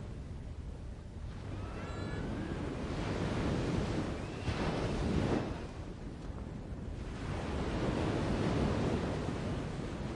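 Tropical forest ambience: a rushing noise that swells and eases in slow surges, with a few faint, high bird chirps about two seconds in and again near the middle.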